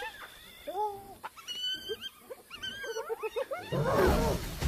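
A group of spotted hyenas squabbling while feeding on a kill, giving short high calls that rise and fall in pitch. The calls come singly at first, then crowd together and grow louder near the end.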